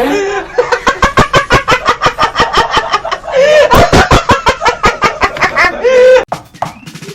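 Loud, rapid cackling in quick pitched pulses, about five a second, stopping suddenly about six seconds in.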